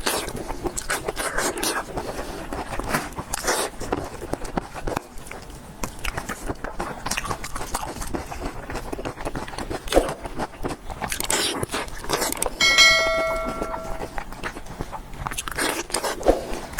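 A person eating close to the microphone: repeated crunchy bites and chewing. About 13 seconds in there is a short ringing bell-like tone.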